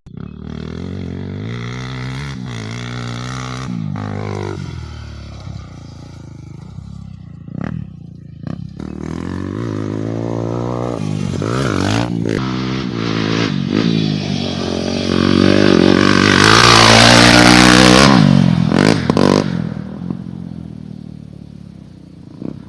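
Motocross bike engine revving up and easing off again and again, its pitch rising and falling as it is ridden, with a few short knocks. It swells to its loudest, with a rush of noise, about three quarters of the way through, then fades.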